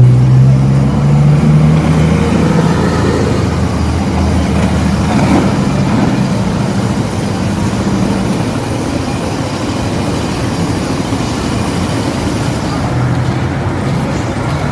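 A road vehicle's engine running, loudest in the first couple of seconds and then fading, over a steady hiss of rain and wet-road noise.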